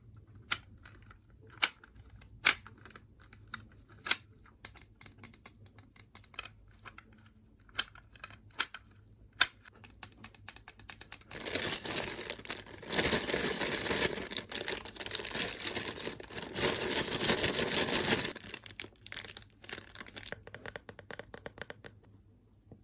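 Plastic toy parts and packaging being handled: sharp separate clicks and taps for the first several seconds, then about seven seconds of continuous crinkling and rustling, then quieter handling noises.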